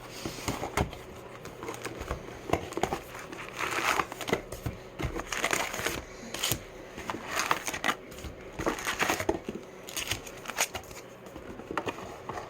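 Plastic wrapping on a box of trading card packs crinkling and crackling as it is handled and opened, with irregular small clicks and knocks.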